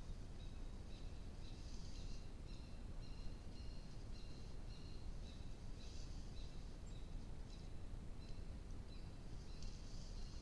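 Steady low background rumble and hiss from a trail camera's microphone, with a bird calling faintly over it: short high notes at two pitches, repeating about twice a second.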